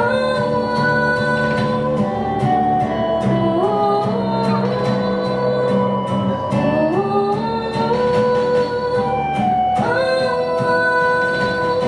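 A song sung to guitar accompaniment: a singing voice holds long notes and slides between pitches over regularly plucked or strummed chords.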